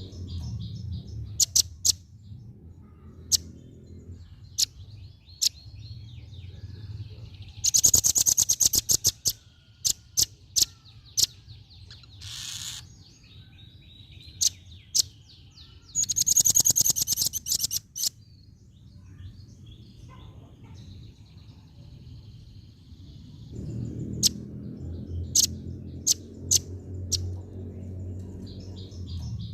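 Female velvet-fronted (red-billed) nuthatch calling: sharp, high single notes scattered throughout, and two fast rattling trills about eight and sixteen seconds in. A low background rumble lies underneath.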